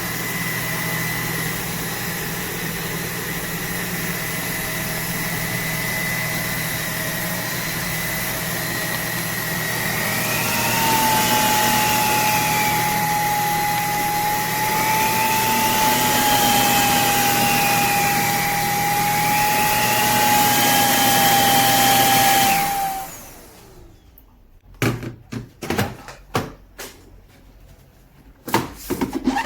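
Roborock H60 Ultra cordless stick vacuum running with a steady whine. About a third of the way in, a lower steady tone joins, along with higher tones that rise and fall. The vacuum cuts off abruptly near the end, followed by a series of clicks and knocks.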